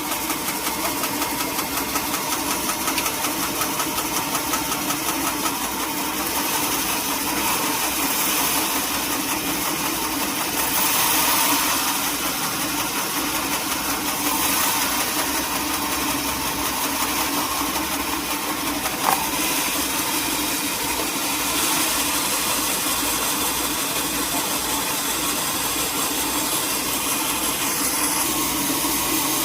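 Sawmill machinery running steadily with an engine drone and dense noise, and one sharp click about two-thirds of the way through.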